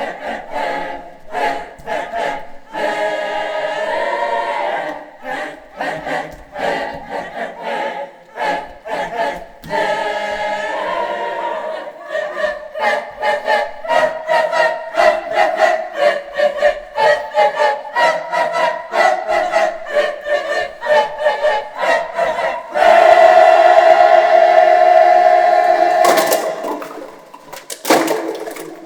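Choir singing short rhythmic phrases with many sharp attacks, building to a loud held chord about 23 seconds in that breaks off a few seconds later.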